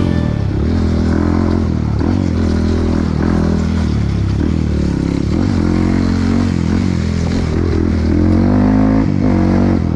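Trail motorcycle engine running under way, its revs rising and falling.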